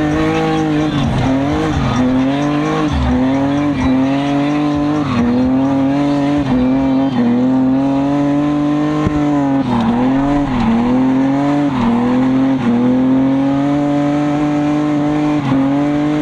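A car engine held at high revs, its note dipping briefly and climbing back again every second or two, as in a hard-driven demonstration run, with tyre squeal.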